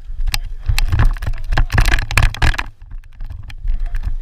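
Low rumble of wind on the microphone under a run of irregular knocks and clatter, busiest in the middle.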